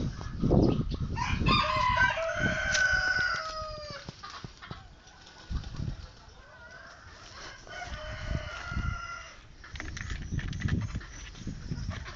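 A rooster crowing twice: a long crow starting about a second in and a second one around the middle, over irregular low knocks and rumble.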